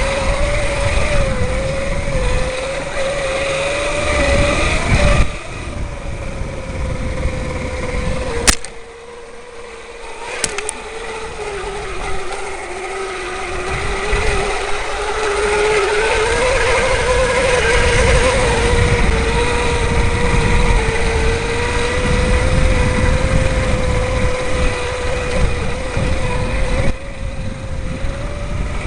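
Electric bike's Astro motor whining under throttle, its pitch drifting up and down with speed, over a heavy low rumble from riding rough ground. It eases off briefly about a third of the way through, with a couple of sharp clicks, then winds back up to a steady whine.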